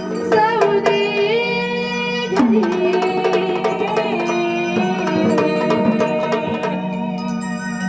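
A woman singing a Marathi gondhal devotional song in long, held, ornamented notes over a steady drone, with drum strokes.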